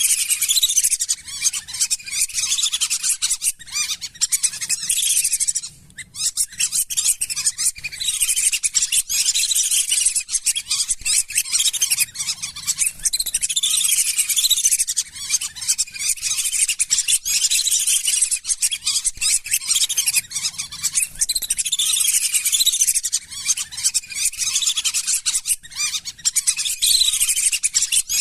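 A flock of lesser whistling ducks calling without pause: many overlapping high, thin whistles, with a short break about six seconds in.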